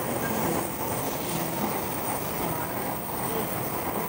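Steady rumble and hiss of Shinkansen bullet trains at a station platform: one standing beside the platform and another pulling in slowly.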